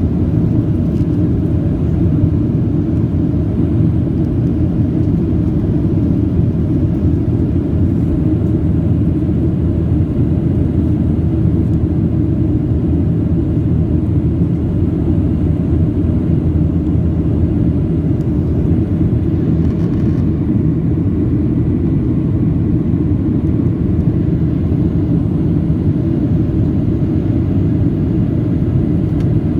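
Airliner cabin noise: a steady, loud low rumble of the jet engines and airflow, heard from inside the passenger cabin.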